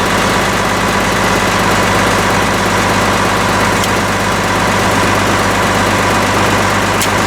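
International Harvester Farmall 806 tractor engine idling steadily.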